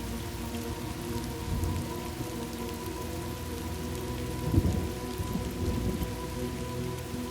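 Steady rain with low rolls of thunder, swelling about a second and a half in and most strongly just past halfway.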